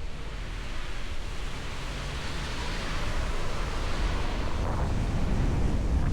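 Wind rushing over the microphone with a heavy low rumble, growing a little louder in the second half.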